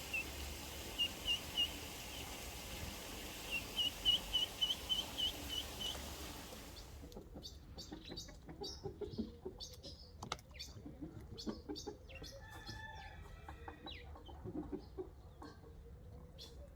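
Ducklings peeping in short high runs over a steady hiss. Partway through, the hiss stops, leaving scattered clicks and a longer poultry call lasting about a second and a half.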